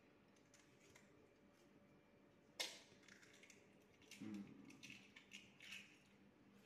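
Mostly near silence, with a few faint clicks and knocks from kitchen things being handled. The sharpest click comes about two and a half seconds in, and a scatter of smaller ones follows in the second half.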